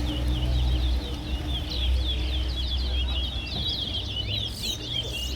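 Towa-towa (chestnut-bellied seed finch) singing in a singing race: a rapid run of short twittering notes that rise and fall, with a steady low rumble underneath.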